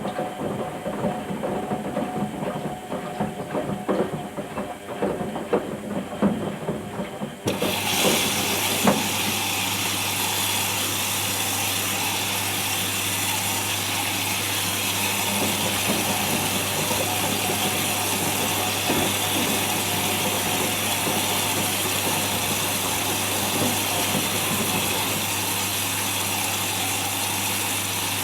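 Whirlpool Indiana 1400 washing machine drum turning with irregular knocks and rattles, then about seven seconds in switching suddenly to a steady, loud rushing hiss with a steady hum as it runs up to spin.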